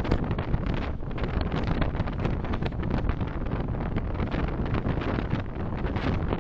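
Steady low rumble of a moving car's road and engine noise picked up by a dashcam microphone, with wind noise on the microphone.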